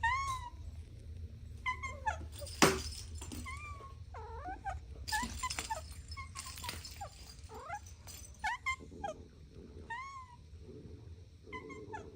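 Kittens mewing: many short, high-pitched mews, some overlapping, with a sharp click about two and a half seconds in.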